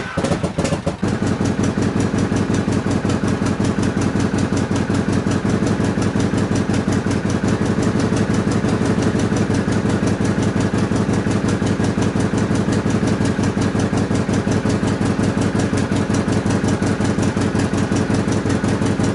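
Motorcycle engine, just started after its carburettor was taken off and refitted with the original jet, running steadily at idle with an even, fast firing beat. It settles about a second in.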